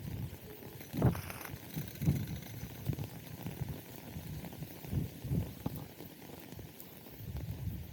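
Footsteps of a person walking, a low thud about once a second.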